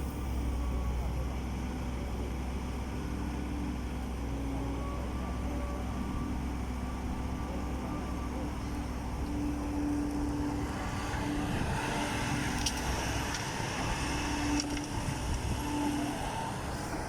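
Heavy diesel engine running steadily, a deep hum with a few short clicks and knocks in the second half.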